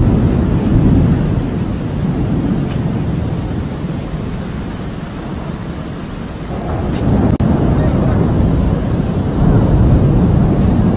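Rain falling in a storm, under a deep rumble that swells twice: near the start, and again from about six and a half seconds in.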